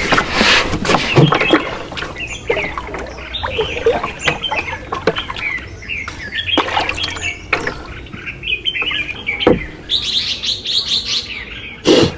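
Small birds chirping and twittering, with scattered knocks and clatter; the loudest clatter comes in the first second or so.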